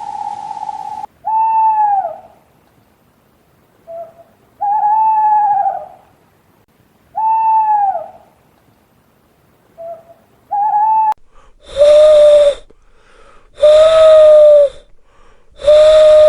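Owl calls from two different recordings. First comes a series of clear hoots, each about a second long and dropping in pitch at the end, with short soft notes between them. About eleven seconds in, a lower, hoarser call repeats three times.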